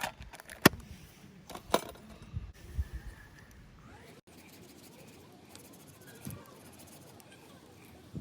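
A few sharp clicks and knocks in the first couple of seconds and some dull thumps, then only faint scattered sounds.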